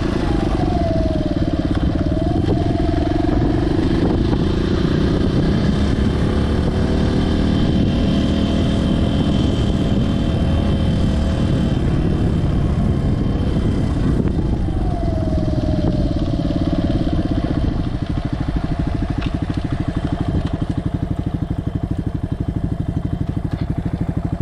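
Suzuki DR200S's single-cylinder engine running, its pitch falling twice as the engine slows. About three-quarters of the way through it settles to a steady, evenly pulsing idle.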